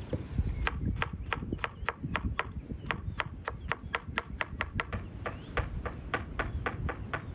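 Knife chopping food on a cutting board in a quick, even rhythm of sharp knocks, about three to four strokes a second, starting under a second in.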